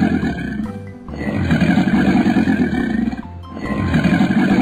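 Crocodile growl sound effect: a low, rough growl lasting about two seconds, heard three times with short gaps between, over children's background music.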